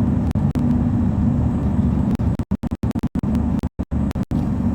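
Lorry's diesel engine and road noise droning steadily inside the cab, with several brief dropouts to silence about two and a half to four seconds in.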